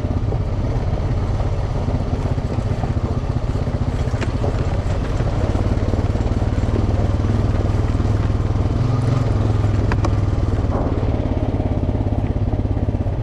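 Off-road vehicle engine running steadily under way on a trail, with a faint knock or two from the ride.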